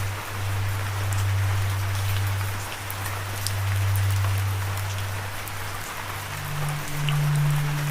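Steady rain with scattered drop ticks, over a low held background-music note that steps up in pitch about six seconds in.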